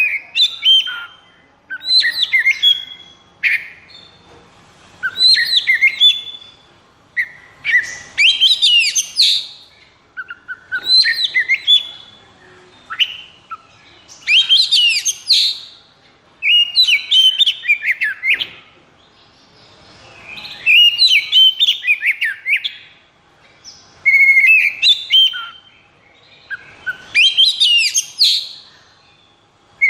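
Oriental magpie-robin (kacer) singing in an excited, aggressive mood: loud, varied phrases of rapid rising and falling whistled notes, one after another every couple of seconds with only short pauses.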